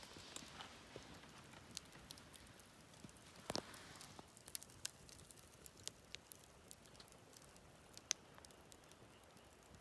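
Wood campfire crackling faintly, with scattered small snaps and one louder crack about three and a half seconds in.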